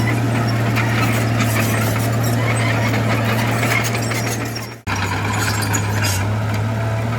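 Heavy earthmoving machinery's diesel engine running steadily under load, with clattering noise over a steady low engine note. The sound fades and cuts out briefly about five seconds in, then resumes with a slightly lower engine note.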